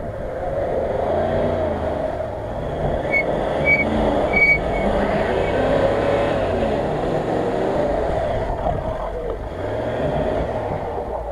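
Range Rover engine revving up and down under load as the car struggles on a grassy slope, its wheels spinning in the wet grass. A few short high squeaks come around the middle.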